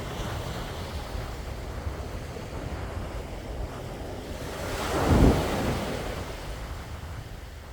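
Sea waves washing ashore over a steady low rumble of surf and wind on the microphone; one wave builds and breaks loudest about five seconds in, then washes out.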